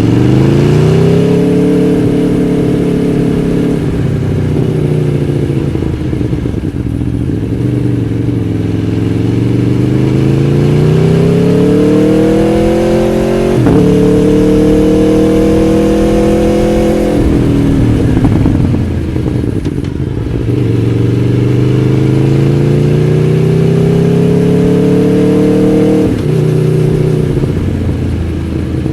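Aprilia Tuono V4 1100 Factory's V4 engine pulling through the gears: the revs climb, drop sharply at an upshift about halfway, fall away as the throttle is closed, then climb again and drop at another upshift near the end.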